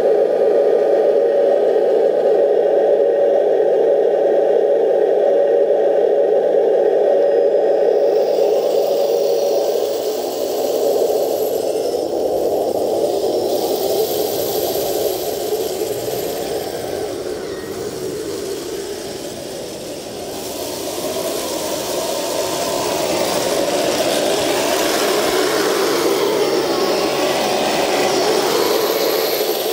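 Electric drive motors and gearbox of a model RC Leopard tank running with a steady whir. After about eight seconds the whir turns noisier and shifts in pitch, dipping in loudness and then rising again near the end.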